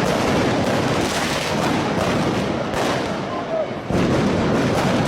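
Fireworks banging amid a noisy, shouting crowd, with a few sharp reports standing out over the constant din.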